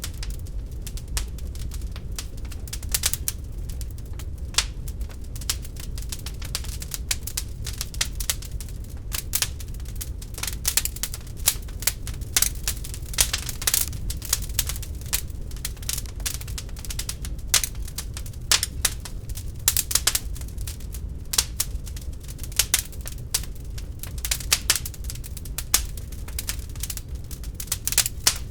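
Real wood fire crackling in a fireplace: many irregular sharp pops and snaps over a steady low rumble of the burning logs.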